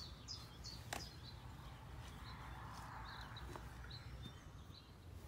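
Small birds chirping in short high calls several times over a faint low rumble, with one sharp click about a second in.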